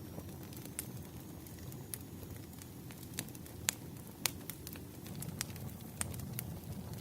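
Wood fire crackling: a steady low rumble of flames with irregular sharp pops and snaps, two louder pops a little past halfway.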